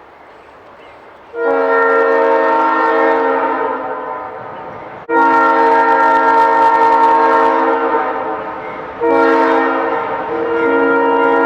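Vintage ALCO diesel locomotive's multi-note air horn sounding about a second in: two long blasts, a short one, then another long one, the grade-crossing signal.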